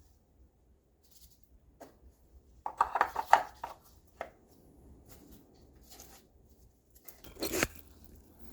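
Scattered clicks and knocks of parts being handled while finishing an oil top-up on a car: a cluster of clatter about three seconds in and a sharper clatter near the end.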